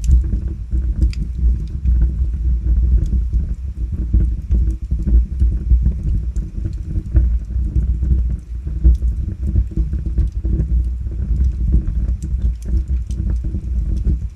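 Log fire burning steadily: a low rumble of flames with frequent small crackles and pops from the wood.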